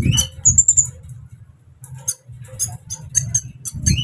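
Sunbird calling: a string of short, high-pitched chirps and ticks, with a brief rapid trill about half a second in, over a low steady rumble.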